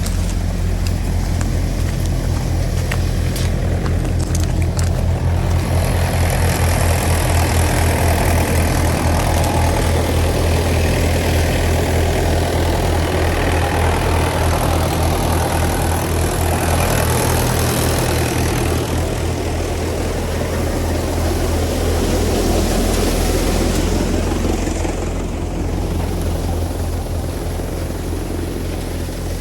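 Tractor diesel engine running steadily with an even low throb. A rushing noise builds over it a few seconds in and eases back about two-thirds of the way through.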